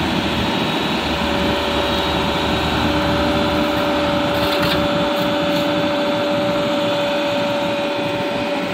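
An engine running steadily, with a constant high whine held over it.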